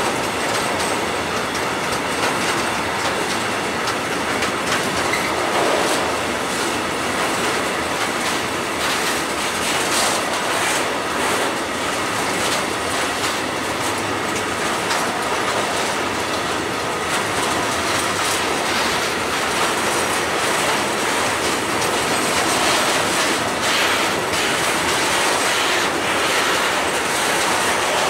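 Freight train of loaded gas tank wagons rolling past close by. The wheels make a steady rolling rumble, with clickety-clack over the rail joints.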